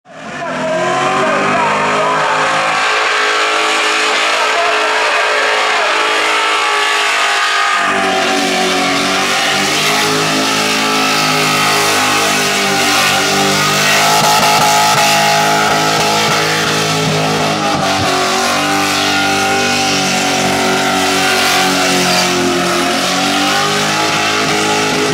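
Supercharged, methanol-fuelled Holden Commodore engine held at high revs through a burnout, rear tyres spinning on the pad. The note wavers as the revs rise and fall, and deepens about eight seconds in.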